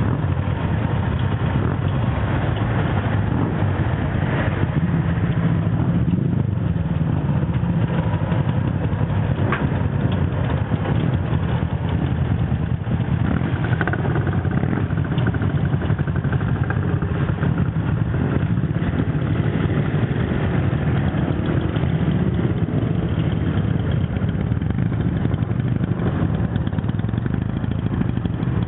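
Classic motorcycle engine idling steadily.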